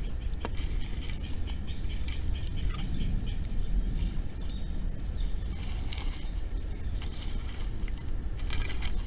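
Outdoor wood fire crackling, with scattered sharp pops over a steady low rumble.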